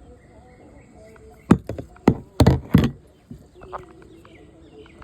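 Four sharp knocks in quick succession about a second and a half in, over a faint outdoor background.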